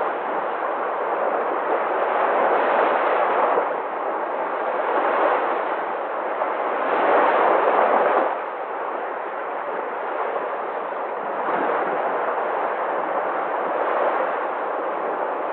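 Sea surf: a continuous rushing wash of waves that swells twice and then drops off sharply about eight seconds in.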